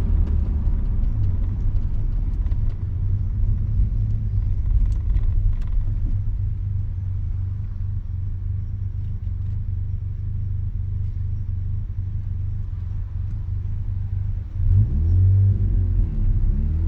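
Mazda RX-7's rotary engine running through an RE Amemiya Dolphin Tail 90 Curl exhaust, heard from inside the cabin with the windows down: a steady low rumble. Near the end the note dips briefly, then falls and rises again as the revs change.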